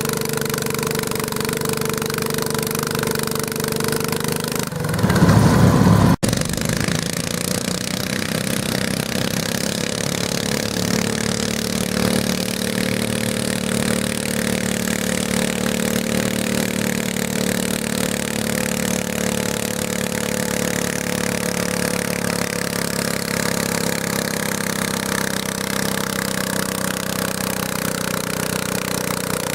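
Garden tractor engine running steadily, with a brief loud rush of noise about five seconds in that cuts off abruptly.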